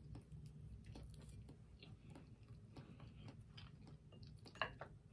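Faint close mouth sounds of a person chewing food, with soft scattered clicks and one sharper click a little before the end.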